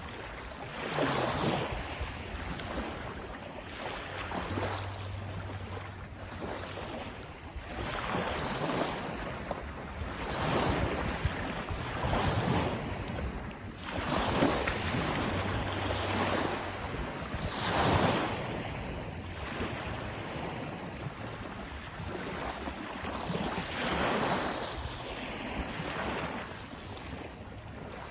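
Sea waves surging and washing in over and over, each swell rising and falling away every few seconds over a steady rumble of wind.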